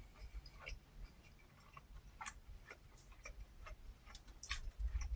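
Faint, irregular small clicks and smacks of a person eating close to the microphone.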